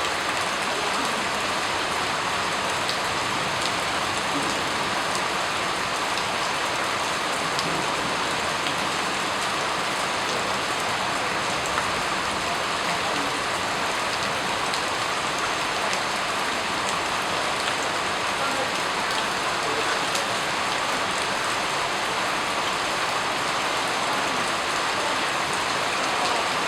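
Steady rain falling: an even, unbroken hiss with scattered faint ticks of individual drops.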